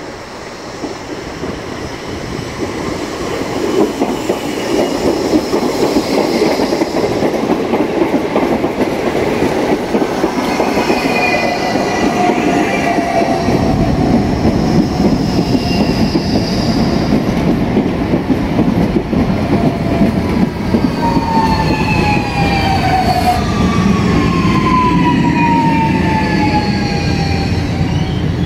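Electric commuter train on CPTM Line 12 running past. Its wheels and running gear make a loud, steady rumble that builds over the first few seconds and deepens about halfway. Faint high whines slide down in pitch in the second half.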